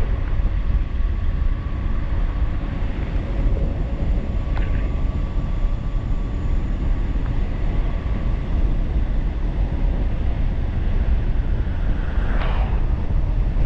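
Wind rushing and buffeting over the microphone of a moving 1500-watt e-bike at speed, heaviest in the low rumble, with a faint steady whine underneath.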